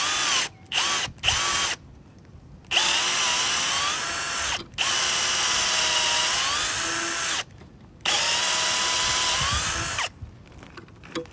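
Power drill boring a hole into a wooden timber-frame pole, run in several bursts. There are a few short bursts at first, then three long runs. The motor's whine sags in pitch under load and picks back up, and it stops near the end.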